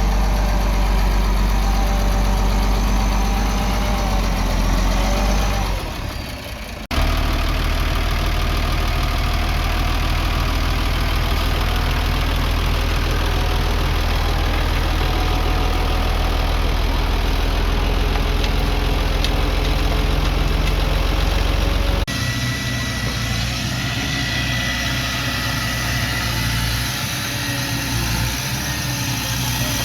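Diesel engines of earthmoving machines running steadily. The engine sound changes abruptly twice, about 7 seconds in and again about 22 seconds in.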